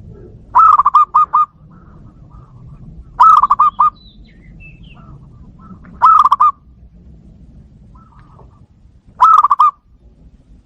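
Zebra dove (perkutut) cooing: four loud bursts of quick, stuttering coos, each under a second long and about three seconds apart, with softer calls between them.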